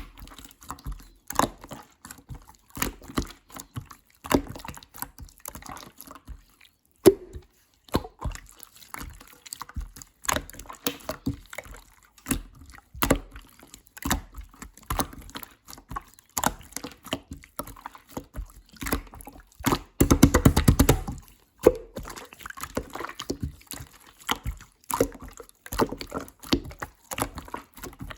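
Clear slime being squished and pressed by hand, making irregular sticky clicks and wet pops. About twenty seconds in comes a quick run of crackling pops lasting a second or so.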